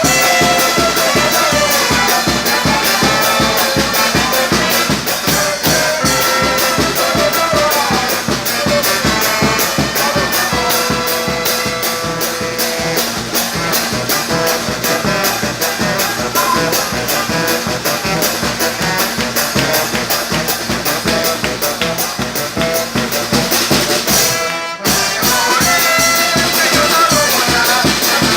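Txaranga street brass band playing a lively tune: trumpets and trombones over a steady drum beat. The music cuts out for a moment about 25 seconds in, then carries on.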